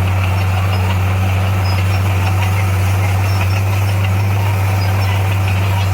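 Bulldozer's diesel engine running steadily with a low, even drone, with faint light clanks over it.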